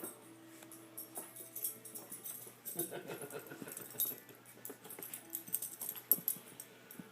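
A chinchilla's plastic exercise ball rolling and rattling with many small clicks as a small dog pushes it across the floor, the rattling busiest about three seconds in.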